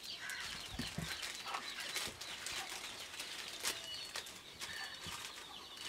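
Birds chirping here and there in the background, short high calls, with a few small clicks and rustles.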